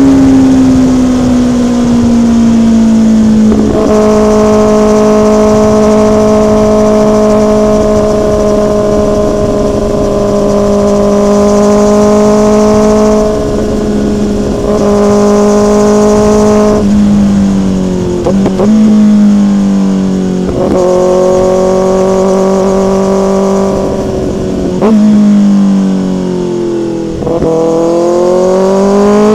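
Motorcycle engine running at speed, loud and close. It holds a steady pitch for long stretches, with the pitch dipping and stepping down a few times, then climbing again near the end as it accelerates.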